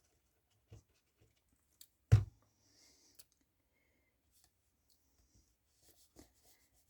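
A few faint clicks and taps of paper and craft pieces being handled on a tabletop, with one sharp knock about two seconds in.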